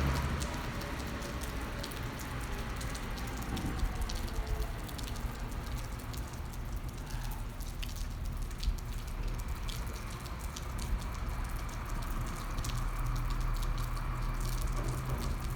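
Rain falling, with scattered drops ticking irregularly close by, over a steady low hum.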